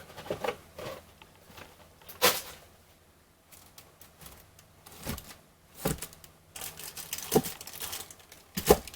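Plastic wrapping of a trading-card box crinkling and tearing in sharp, irregular bursts with short quiet gaps, as the box is unwrapped and the packs are handled.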